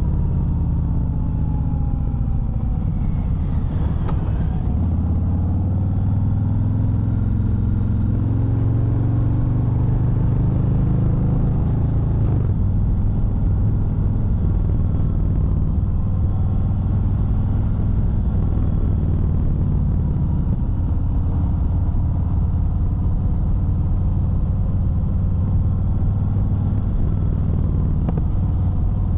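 Harley-Davidson Fat Bob 114's Milwaukee-Eight 114 V-twin running on the road. Its pitch climbs over the first ten seconds or so as the bike accelerates, drops sharply about twelve seconds in, then holds fairly steady with small rises and falls.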